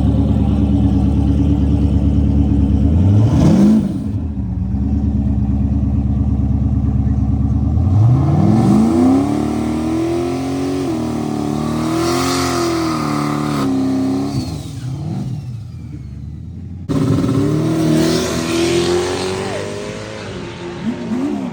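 Vehicle engine heard from on board while driving, its pitch climbing under acceleration and falling back several times as the driver shifts and eases off. The sound drops away abruptly near the three-quarter mark and comes back just as suddenly, revving again.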